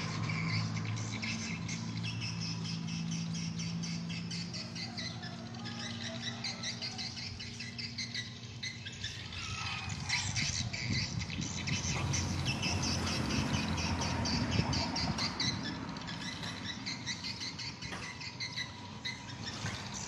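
A flock of swiftlets twittering, with many rapid, overlapping chirping calls. A low hum sits under the calls for the first few seconds.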